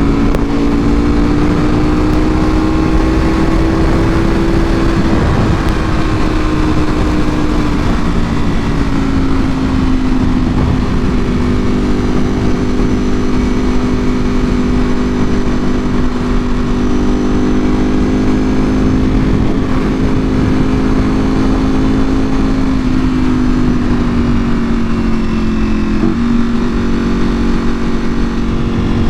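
Ducati Panigale V4R's V4 engine through an Akrapovic full exhaust, running steadily at speed with the pitch mostly level. It dips briefly about five seconds in and again near the end, over heavy wind rush.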